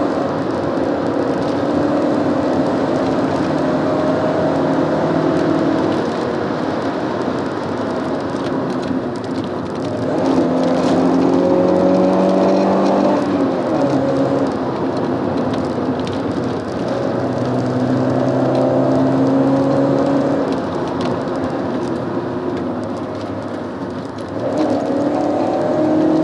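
Alfa Romeo 916 GTV Twin Spark's 2.0-litre four-cylinder engine heard from inside the cabin while driving, over tyre and road noise. Its note holds steady for a few seconds at a time and changes pitch in steps, getting louder about ten seconds in and again near the end.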